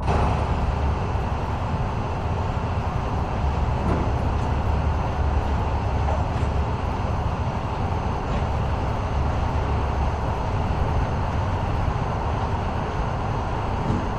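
A vehicle running, a steady low rumble with even road-like noise that starts suddenly at the outset.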